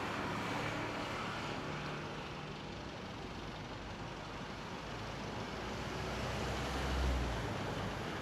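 Road traffic ambience: a steady wash of passing vehicles, with a deep engine rumble from a heavier vehicle that swells to its loudest about seven seconds in, then fades.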